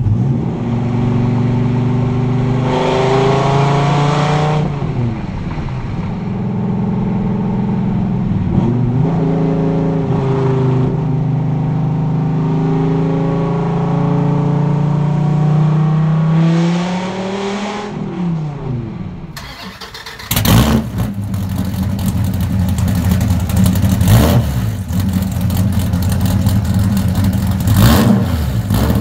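Dodge Viper ACR's 8.4-litre V10, fitted with aftermarket heads and cam, running through straight pipes with the mufflers removed: it idles steadily, is revved up and back down twice, then after a cut is given a series of quick, sharp revs.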